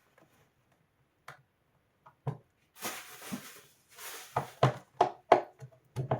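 Scattered clicks and knocks, two short scraping rustles, then a quick run of about six sharp knocks near the end: hands and tools handling hard parts during disassembly.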